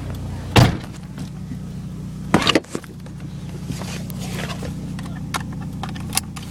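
Pickup truck engine running with a steady low hum heard from inside the cab, with a loud thump about half a second in and another near two and a half seconds, plus scattered lighter clicks and knocks.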